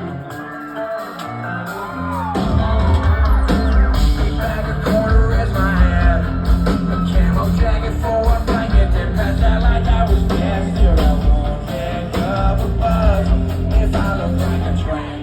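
Live country-rock band playing loudly, with singing and yells over it. The full band, heavy bass and drums, comes in hard about two seconds in.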